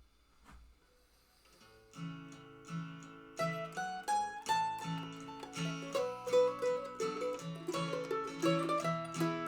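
Mandolin and acoustic guitar playing an instrumental intro, starting about two seconds in after a near-quiet start.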